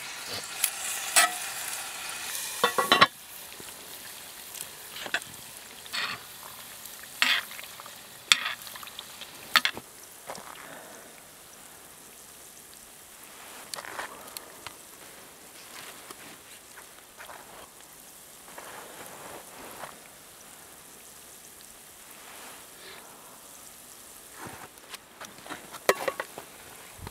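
Food sizzling in oil in a cast iron skillet over a campfire, with a utensil stirring and scraping against the pan in short clacks, most often in the first ten seconds and again near the end.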